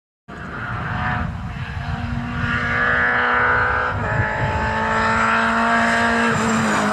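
A car's engine running at steady high revs, its pitch holding level and then dropping near the end.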